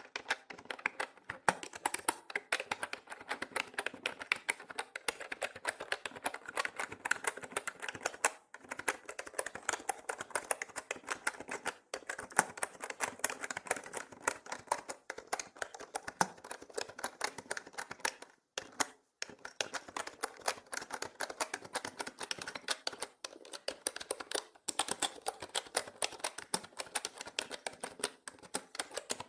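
Continuous fast typing on a mechanical keyboard: dense clacking keystrokes, broken by short pauses a few times.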